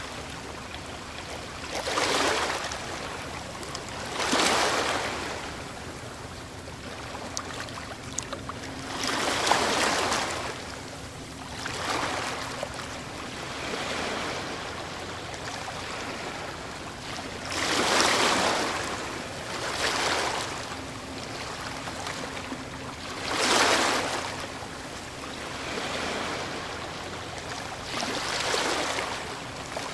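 Ocean waves breaking on a shore: surges of surf swell and wash out every two to five seconds, about ten in all, over a continuous hiss of moving water.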